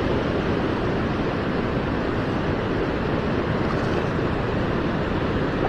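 Steady rushing of flowing river water around a wading angler, an even noise with no breaks.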